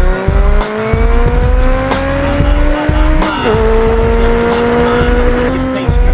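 Race-car engine revving, its pitch climbing steadily for about three seconds, then dropping sharply as it shifts up and running on at a steadier pitch, over a thumping music beat.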